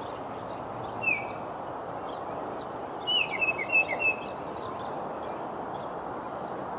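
Wild songbirds calling and singing: a single short downslurred call about a second in, then a quick run of many high sliding notes around three to four seconds in, over a steady background hiss.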